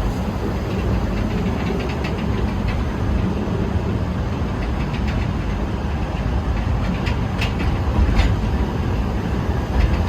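Small forest railway train running along the track, heard from aboard a passenger car: a steady rumble of wheels on rail, with a few sharp clicks in the second half.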